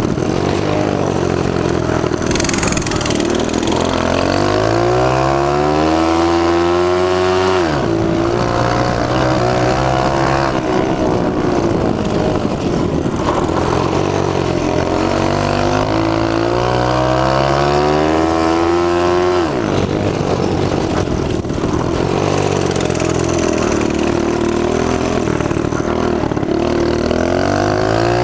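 Small mini bike engine under hard throttle: its pitch climbs steadily for several seconds, then drops sharply, about 8 seconds and 20 seconds in, before climbing again.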